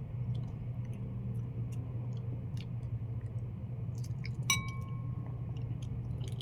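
Light clicks and taps at the table over a steady low hum, with one sharp clink of tableware about four and a half seconds in that rings briefly.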